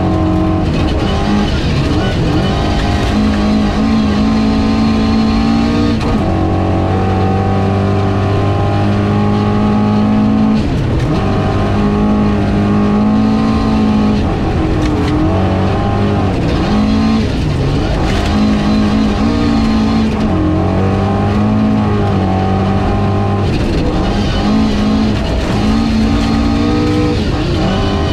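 Ford Escort RS 2000 rally car's engine pulling hard, heard from inside the cabin at speed on gravel: the engine note climbs through the revs and falls sharply at each gear change, about six times.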